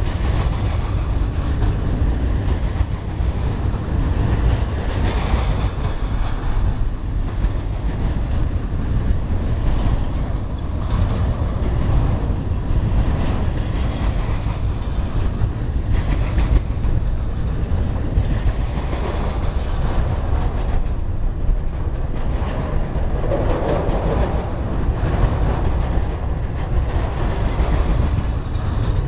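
Double-stack intermodal freight train's container well cars rolling past close by: a steady rumble of steel wheels on the rails with a running clickety-clack of wheel clicks.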